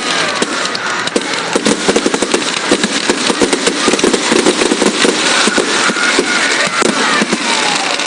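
Fireworks crackling: a loud, dense, continuous run of rapid sharp pops, with a few faint whistles about five to six seconds in.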